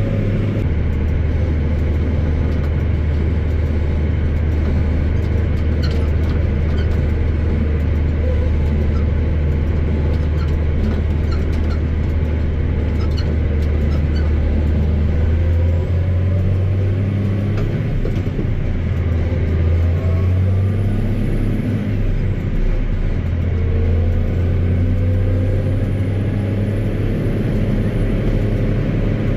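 Versatile 2375 four-wheel-drive tractor's diesel engine running steadily under road travel, a loud low drone heard from inside the cab. Its pitch rises about halfway through and dips briefly a few seconds later as engine speed changes.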